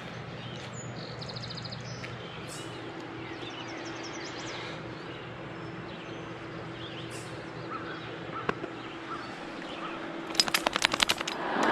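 Birds calling and chirping over a faint steady hum, with a quick run of sharp clicks near the end.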